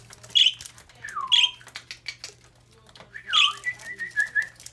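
Pet parakeets squawking: three sharp loud calls, the last two each followed by a falling whistle, then a quick run of short chirps near the end.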